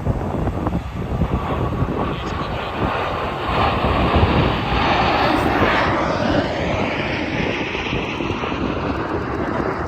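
An engine passing close by, its noise building to a peak about halfway through, then falling in pitch as it moves away.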